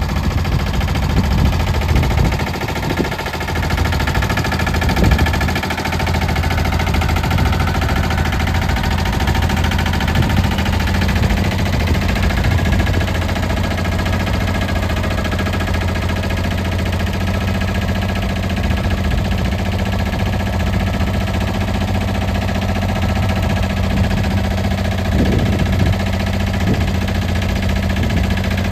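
Small diesel tractor engine running steadily, with a few irregular knocks and clunks over it in the first several seconds and again near the end.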